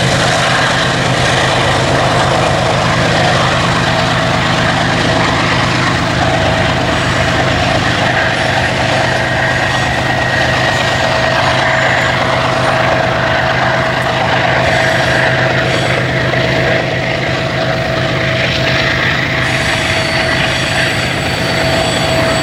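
Diesel-electric freight locomotives running steadily while a string of empty grain hopper cars rolls over the rails, with a steady low engine hum and a thin steady tone above it.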